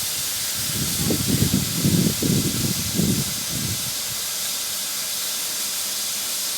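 Steam locomotive hissing steadily as it lets off steam. Some lower, uneven sounds come through between about one and four seconds in.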